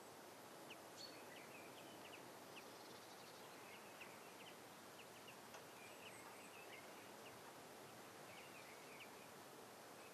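Faint outdoor ambience: small birds giving short, scattered chirps over a steady hiss.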